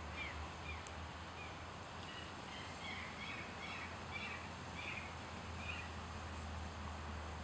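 Small birds calling outdoors: a few short falling chirps in the first second, then a run of high twittering notes from about two to six seconds in, over a steady low background hum.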